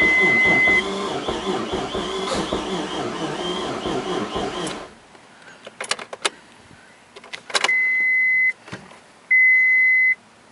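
The Mitsubishi 3000GT is cranked on its starter for about five seconds without catching, then the cranking stops abruptly. A few clicks follow, and a steady electronic beep sounds three times, each beep a little under a second long. The no-start is being checked after a new crankshaft sensor was fitted.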